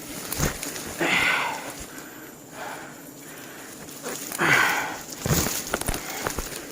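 Rustling and snapping of someone moving through brush, with two longer swishes and a few sharp snaps.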